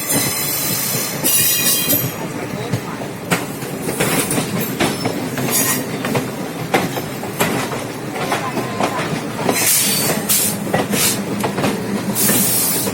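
Passenger train running on the rails: wheels clattering over rail joints, with a few bursts of high-pitched screeching, about a second long, near the start, about ten seconds in and near the end.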